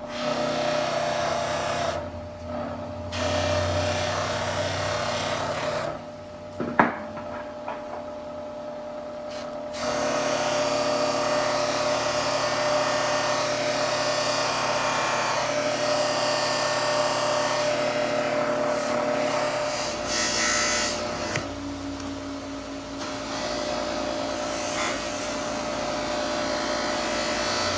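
Bench buffer running with a cotton buffing wheel, as buffing compound and then a bent metal wire part are pressed against the spinning wheel; a rubbing hiss swells and eases with the pressure over a steady motor hum. One sharp click about seven seconds in.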